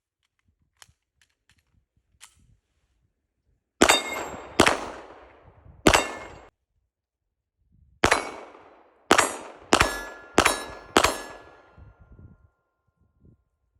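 Eight 9mm pistol shots from a Canik Rival-S, a string of three and then, after a short pause, a quicker string of five, with steel targets clanging and ringing on the hits. A metallic ring hangs on briefly after the last shot.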